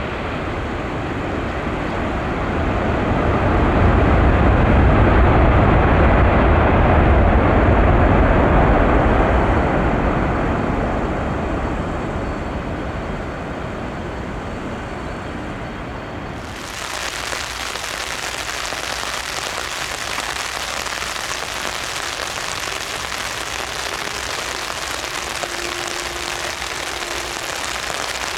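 Boeing 747-400F jet engines rumbling as the freighter lands, swelling over the first few seconds and then slowly fading. About halfway through the sound switches abruptly to a steady high hiss of jet engines.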